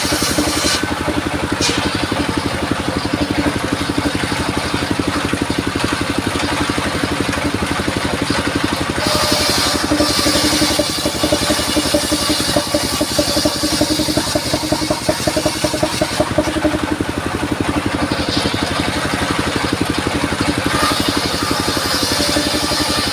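Engine of a portable circular sawmill running steadily, with a high hissing rasp of the saw blade cutting sengon (albasia) wood at about nine seconds in and again from about seventeen seconds on.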